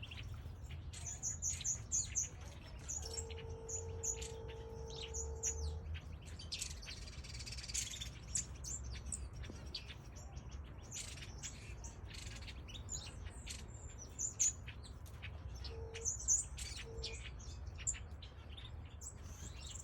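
A mix of small aviary birds, finches and softbills, chirping and twittering, with many short high calls overlapping throughout. A steady low tone sounds for about three seconds a few seconds in, and there is a faint low rumble underneath.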